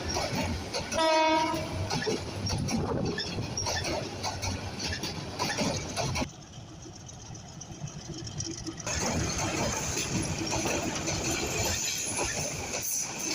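A train running past on the rails with a steady clatter, and a short single blast of the locomotive horn about a second in. The rail noise drops away for a couple of seconds in the middle, then comes back.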